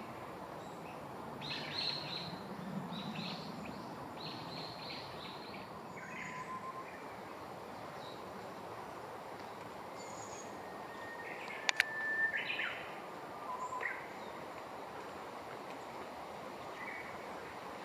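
Small birds giving short, scratchy chirps in several bursts over a steady outdoor background hiss, with a single sharp click about twelve seconds in.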